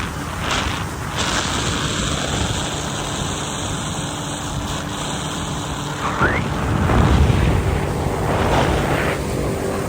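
A motor vehicle's engine running under way, with heavy wind noise buffeting the microphone. About six seconds in there is a brief rising sweep, followed by a louder surge of engine and wind.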